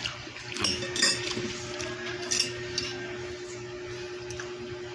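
Eating utensils clinking against a dish in a few sharp separate clinks, over a steady faint hum that starts about a second in.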